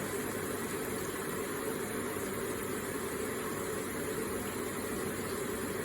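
Electric water feature running, its water falling in a constant, even rush with no separate drips or splashes standing out.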